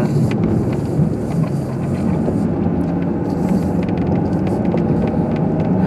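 Car driving on snowy streets, heard from inside the cabin: a steady mix of engine and tyre noise.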